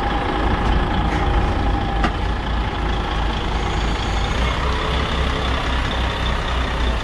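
Container truck's diesel engine running steadily at low revs as the tractor-trailer reverses slowly, with a short click about two seconds in.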